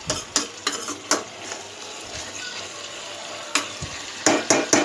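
Chicken pieces frying in oil in a pan, sizzling steadily, while a spoon stirs them and scrapes and knocks against the pan in quick strokes near the start and again near the end.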